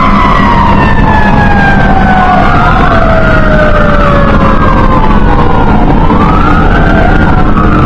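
Fire engine siren wailing, its pitch sweeping slowly up and down over and over, over the steady low rumble of the truck's engine.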